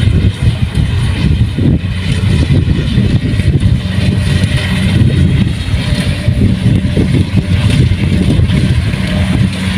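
Kubota rice combine harvester running steadily, a loud continuous low engine sound with a fainter higher mechanical hiss above it.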